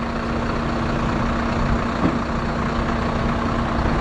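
Heavy truck diesel engine running steadily with a constant hum, slowly growing a little louder, as a 26-tonne lorry is moved forward out of a ditch recovery.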